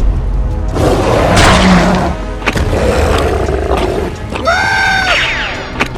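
Cartoon soundtrack: background music under a deep rumble, with two long monster roars followed by a short pitched cry near the end.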